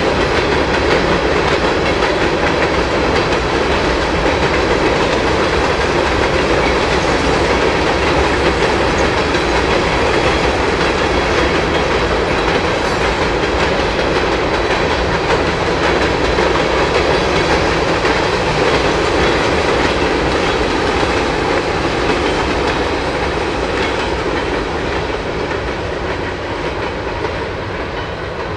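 Freight train cars rolling past, their wheels clicking over the joints of jointed rail. The sound is loud and steady, then fades over the last few seconds as the train moves away.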